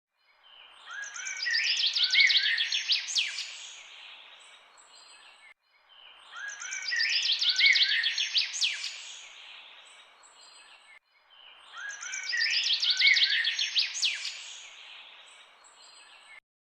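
Songbird singing a fast, high trilling phrase of rapidly repeated notes over faint outdoor background noise. The same short recording is looped three times, each pass cut off suddenly.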